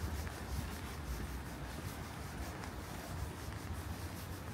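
Outdoor ambience in the rain: a soft, scratchy patter, likely light rain and footsteps, over a steady low rumble.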